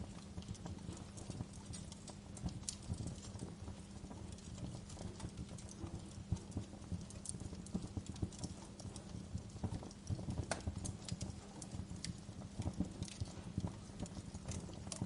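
Wood fire burning in a fireplace, crackling with many irregular pops and snaps over a low steady rumble.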